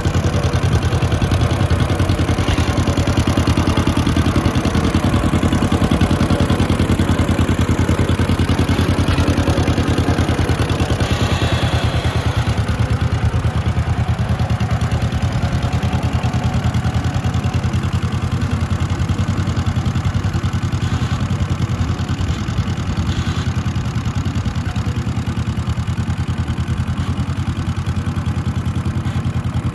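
John Deere LA tractor's small two-cylinder engine, a freshly installed used donor engine, running steadily with an even, rapid firing beat.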